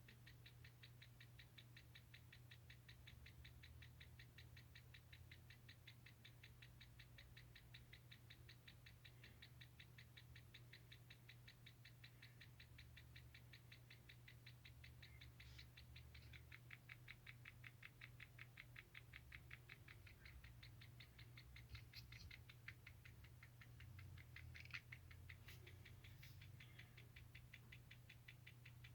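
Mini portable washing machine running faintly: a steady low hum with a rapid, even ticking, and a few sharper clicks near the end.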